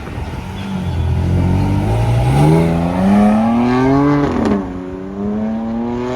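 A performance car accelerating hard: its engine note climbs steadily for about four seconds, drops sharply at an upshift about four and a half seconds in, then climbs again in the next gear.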